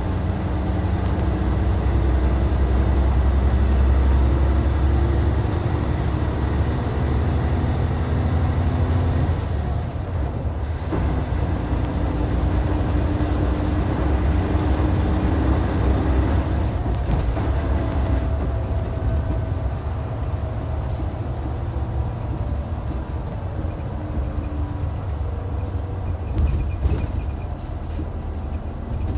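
Hyundai D6CC Powertec 380 inline-six diesel engine of a Hyundai Universe coach running under load on the road, heard from inside the cabin. The engine note dips briefly about ten seconds in and again about seventeen seconds in, then picks up again.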